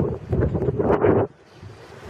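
Strong wind gusts buffeting the microphone in irregular rumbling surges, dropping off sharply a little past halfway.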